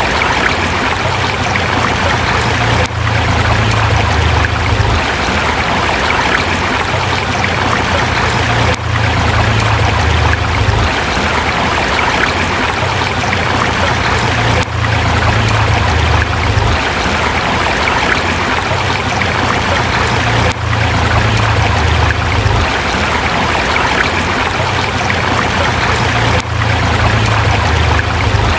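River water rushing and splashing over rocks in a steady, even flow, with a low rumble underneath and a brief dip about every six seconds.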